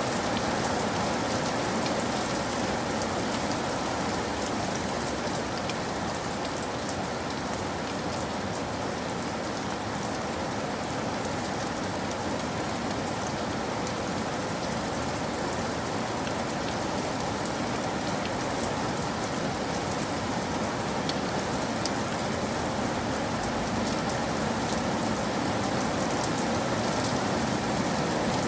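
Steady rain falling: an unbroken hiss dotted with the fine patter of many small drops.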